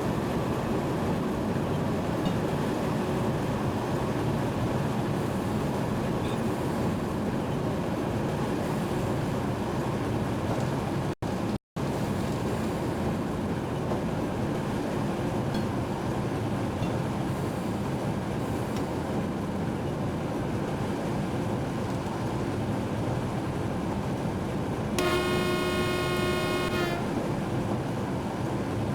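Train running steadily, heard from inside the locomotive cab, with one horn blast of about two seconds near the end. The sound cuts out for a split second a little before the middle.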